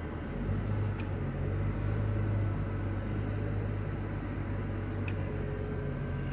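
Diesel engine of an articulated heavy-equipment machine running as it drives, a steady low drone, with two faint clicks, about a second in and near five seconds.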